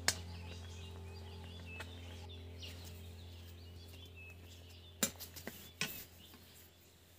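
Faint bird chirps over a steady low hum, with a few sharp clicks, one at the start and a couple about five and six seconds in. The hum fades near the end.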